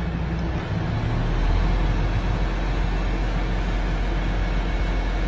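A vehicle's engine running steadily with a low rumble, a little louder from about a second in.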